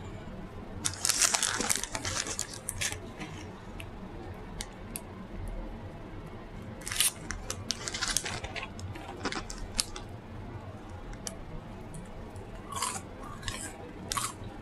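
Close-miked mukbang eating and food-handling sounds: three bursts of sharp crackling clicks, about a second in, around seven seconds in, and near the end.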